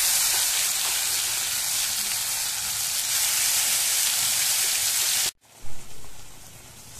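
Wet onion-tomato masala paste hitting hot oil in a kadai, sizzling loudly and spitting. The sizzle cuts off suddenly about five seconds in and gives way to a softer sizzle with a brief thump, as a slotted spoon works the paste.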